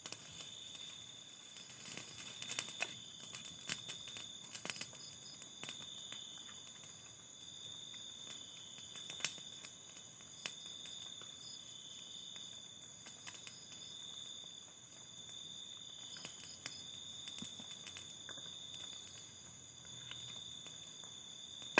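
Quiet, steady high-pitched chirring of night insects, with scattered faint clicks and taps.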